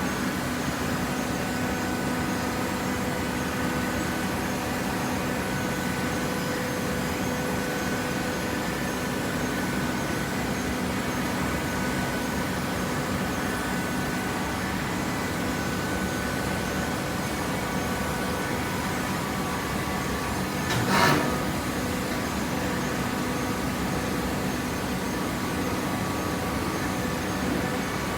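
Hydraulic waste-paper baler running: a steady machine hum holding several constant tones, with one short, louder burst of noise about two-thirds of the way through.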